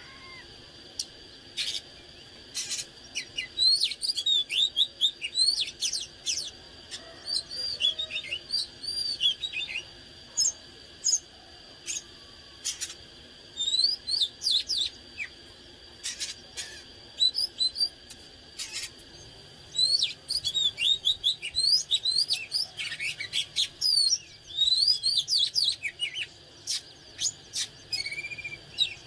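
Oriental magpie-robin singing: rapid, varied phrases of short whistles and sharp chirps in bursts with brief pauses between them, over a faint steady high-pitched tone.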